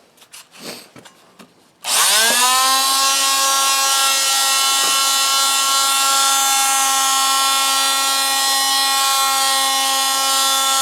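Small electric oscillating sander switched on about two seconds in, whining up to speed and then running at a steady pitch while sanding the inside of a cast iron pan. A few light handling clicks come before it starts.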